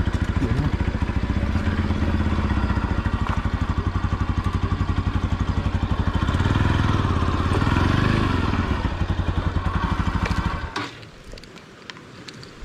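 Motorcycle engine running at low revs with an even beat of firing pulses, picking up a little near the middle, then switched off about eleven seconds in; a few light clicks follow.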